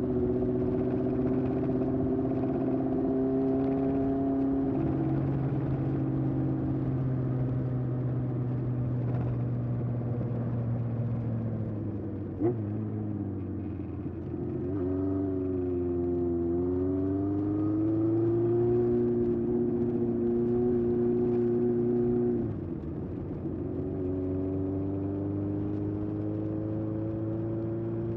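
1981 Honda CB750F's air-cooled inline-four running through a period Yoshimura exhaust while riding. The engine note holds steady, falls away about twelve seconds in with a single sharp click, climbs again as it pulls away, then drops briefly a little over twenty seconds in before rising once more.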